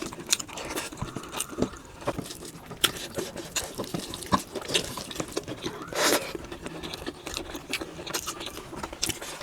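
Close-miked eating of bhakka rice cake: chewing and mouth sounds with many light clicks and scrapes, and a louder scraping rustle about six seconds in.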